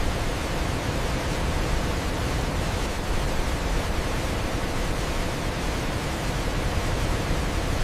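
Waterfall: a steady, even rush of falling water with a deep rumble underneath.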